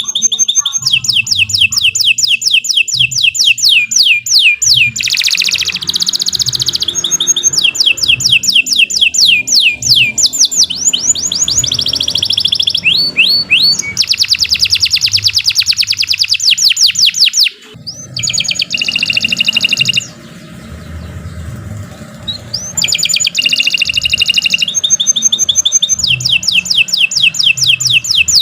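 Domestic canary singing a long, loud song made of rapid repeated trills of quick downward-sweeping notes, switching to a new trill pattern every second or two. A brief drop in the song comes about two thirds of the way through.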